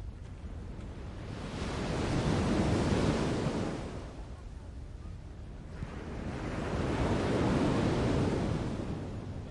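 Waves washing in twice, each a slow swell of rushing water that builds for a couple of seconds and then drains away, over a steady low rumble.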